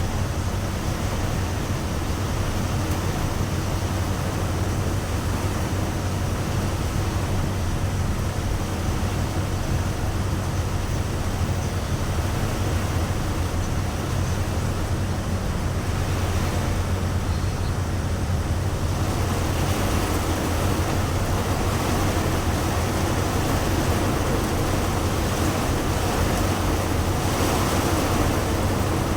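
Heavy rain falling steadily, an even rushing hiss with a low drone underneath.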